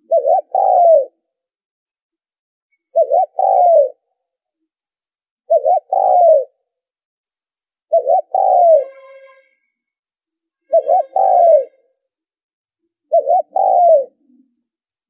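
Spotted dove cooing: six repeated phrases about every two and a half seconds, each two short notes followed by a longer, arching coo.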